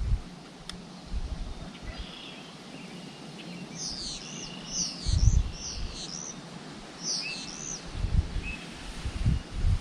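A songbird singing a phrase of quick, high, looping chirped notes about four seconds in, and a shorter phrase a little later. Low rumbling bumps on the microphone, the loudest of them near the middle and toward the end, sound under a steady outdoor hiss.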